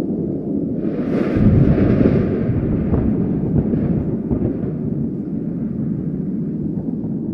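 Thunder: a sharp crack about a second in, then a loud deep boom that rolls on and slowly settles into a steady low rumble.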